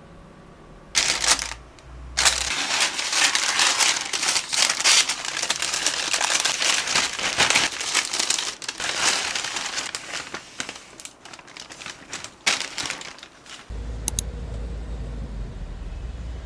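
Packaging crinkling and rustling as it is handled, in irregular bursts for about twelve seconds; near the end a steady low hum starts.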